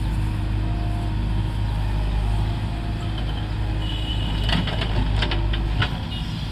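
Tractor diesel engine running steadily with a low drone, with a run of sharp clicks and rattles in the second half.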